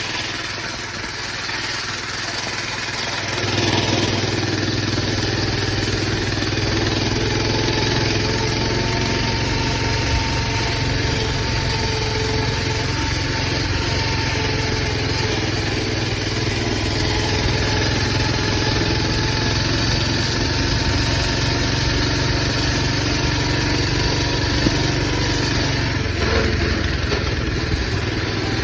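Coleman BT200X mini bike's small single-cylinder engine running under way. It picks up about three and a half seconds in, then holds a steady cruising drone.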